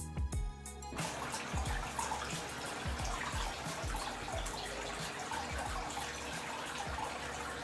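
Water running and splashing as a steady crackling hiss, with a music beat continuing faintly underneath; music plays for about the first second.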